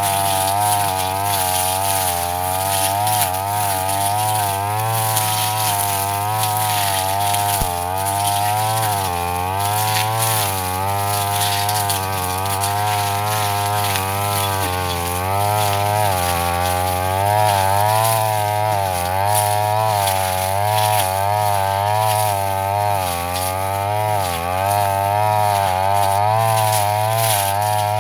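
Petrol brush cutter running at high speed while cutting thick grass, its engine pitch wavering up and down continuously as the blade meets and clears the growth.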